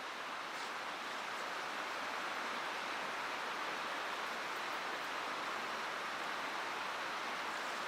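Mountain stream water running with a steady, even rush that rises slightly in level over the first couple of seconds.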